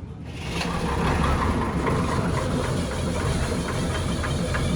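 Rebuilt Nissan diesel truck engine running with a fast, even beat. It gets louder over the first second, then runs steadily.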